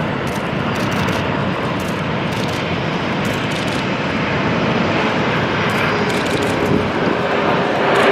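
Steady jet noise from a Boeing 747-400's four turbofan engines on its landing approach, with a faint steady whine appearing about five seconds in.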